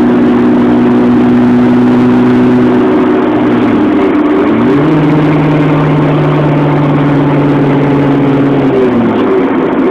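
Honda Integra's engine running under way, heard from inside the cabin over road noise. The engine note holds steady, then dips and climbs back about four seconds in, settles at a new steady pitch, and dips and climbs again near the end.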